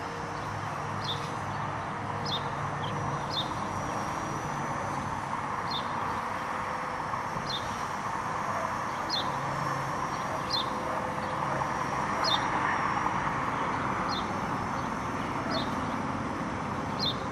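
A bird repeating a short, high, falling chirp about every second or so, over a steady rush of wind noise.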